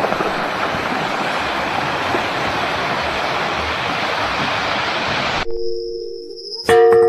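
A steady rushing noise, like running water or wind, that cuts off abruptly about five and a half seconds in. Near the end a single sharp metallic strike rings on in several steady tones, like a chime or singing bowl opening background music.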